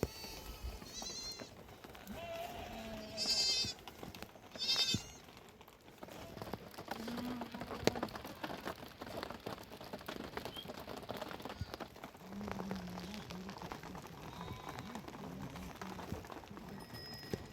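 Sheep bleating several times, the loudest calls about three and five seconds in, with lower bleats later.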